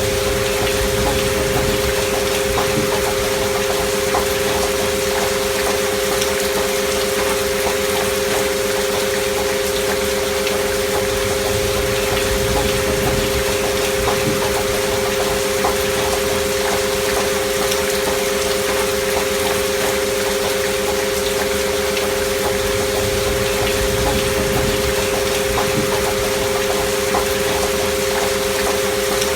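Steady rain recording with scattered small drop ticks, overlaid with two continuous pure tones a little apart in pitch, a sine-tone frequency mix with a binaural beat. There is no change in level or pitch.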